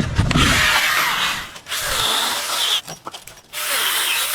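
A power saw cutting in three bursts of about a second each, with short pauses between.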